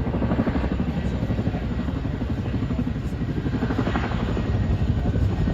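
Boeing CH-47 Chinook tandem-rotor helicopter running, with the fast, steady chop of its rotor blades over a low engine and rotor rumble.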